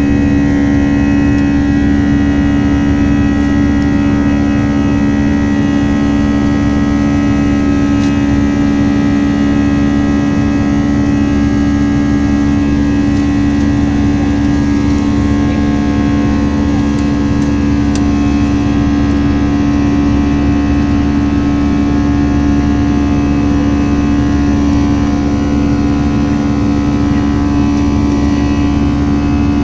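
Steady drone inside an Airbus A321 airliner's cabin: a strong low hum with many steady tones above it over a bed of rushing noise, level and unchanging throughout.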